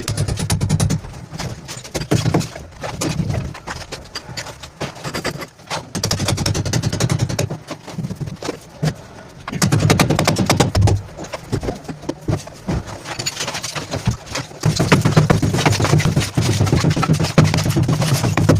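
Electric demolition hammer chiselling in rapid repeated blows over a steady motor hum. It runs in several bursts with short pauses between them, loudest in the last few seconds.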